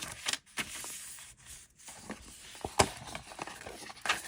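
A notebook and its paper packaging being handled: scattered rustles and soft knocks, with one sharp tap a little under three seconds in.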